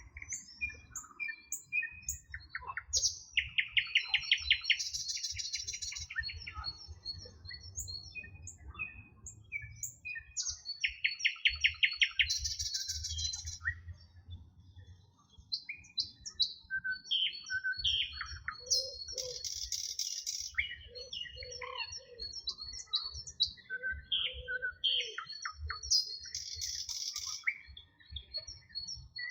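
Several songbirds singing at once, with many short chirps and whistles. One bird repeats a loud rapid trill, ending in a buzzy phrase, about every seven or eight seconds.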